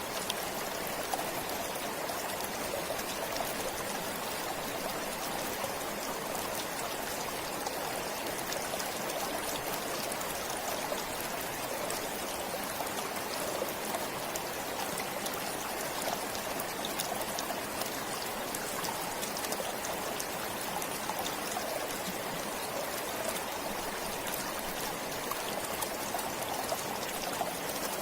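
Stream flowing steadily: a constant rush of running water with fine trickles and splashes.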